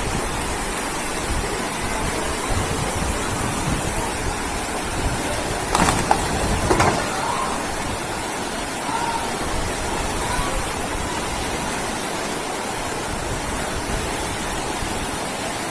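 Floodwater rushing through a street: a steady, even rush of water. Faint voices come in briefly about six seconds in.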